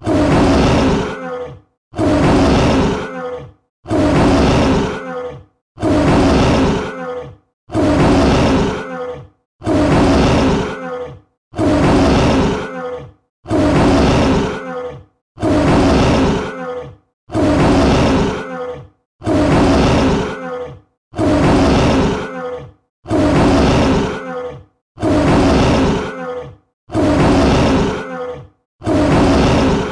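Tiger roar sound effect: the same short roar, about a second and a half long, repeated identically about every two seconds as a loop.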